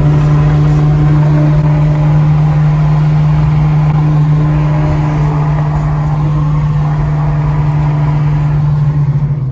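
Car engine and road noise at a steady cruise: a constant low drone that holds one pitch, neither revving up nor dropping.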